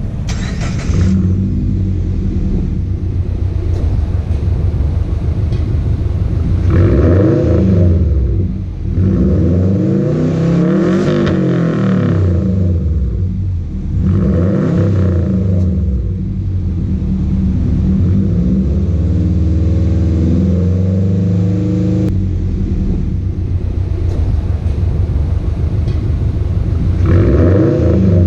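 Subaru Forester's flat-four engine through a custom 2½-inch exhaust with a Flowmaster Super 10 muffler and split dual tips, idling and revved several times. There are short blips, one longer climb and fall in the middle, and another rev near the end.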